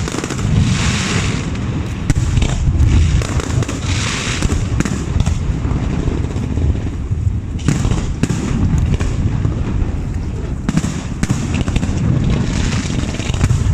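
Fireworks display: a continuous barrage of booming shell bursts with many sharp bangs, and bouts of crackling about a second and four seconds in.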